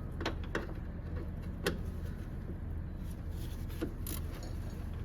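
A few sharp metal clicks and clinks of a wrench working a tight 10 mm bracket bolt, the loudest just under two seconds in, over a steady low hum.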